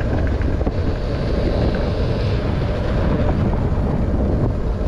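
Wind buffeting the microphone of a moving motorcycle, a steady low rumble with the bike's engine running underneath.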